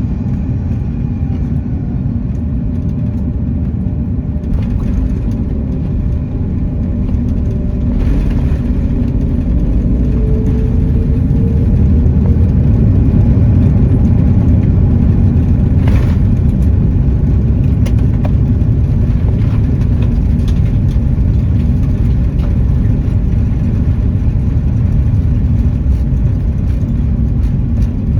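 Airbus A330 cabin noise while the airliner rolls along the ground after landing: a steady low rumble of the engines and the roll, growing louder about eight seconds in. There is a single click a little past halfway.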